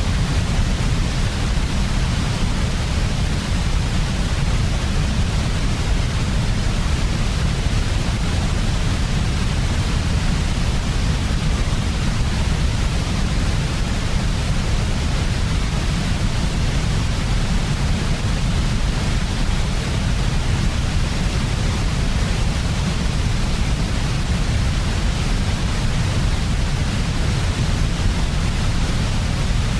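Steady, unchanging synthetic white noise of the kind played for baby sleep: an even hiss, heaviest in the deep low end.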